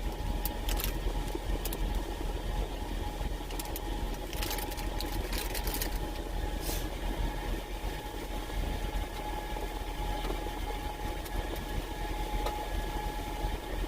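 Steady low rumble of an idling truck engine heard inside the cab, with a few brief clicks and rustles in the first half.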